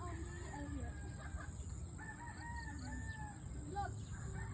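A rooster crowing, its calls rising and falling in drawn-out arcs, over a steady low rumble.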